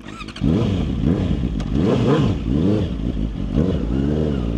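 Motorcycle engine revved up and down about five times in quick succession, then settling to a steadier note near the end.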